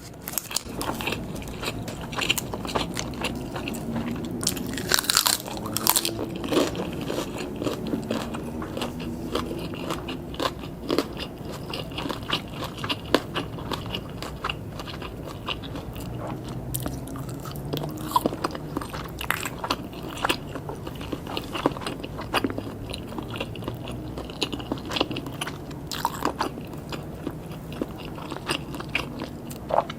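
Close-miked eating sounds: biting into and chewing grilled pork skewers and sausages, with a dense run of short, sharp mouth clicks.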